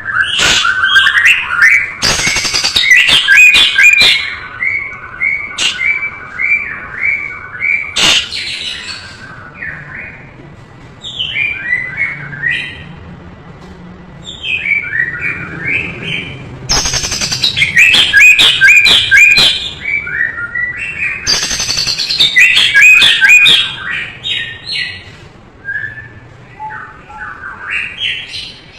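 White-rumped shama singing a long, varied song of rapid whistles and chattering phrases strung with mimicked calls, in loud bouts with short pauses between them. Sharp clicks are scattered through the song.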